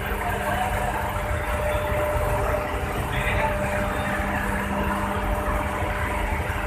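Heavy diesel engine running steadily at idle: a low rumble with a steady hum.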